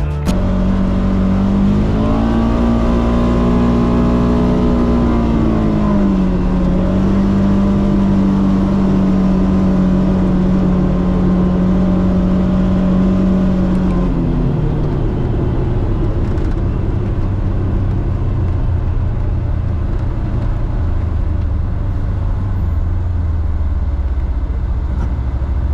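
Polaris Xpedition side-by-side's engine running on a trail. The pitch rises about two seconds in, holds steady, then drops off partway through, leaving a lower rumble.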